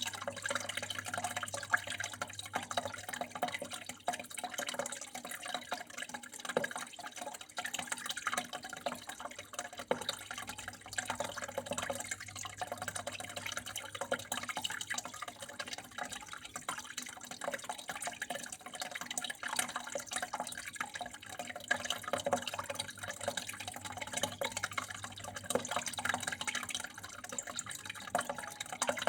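Water flowing and trickling steadily: a continuous patter of many small splashes and drips.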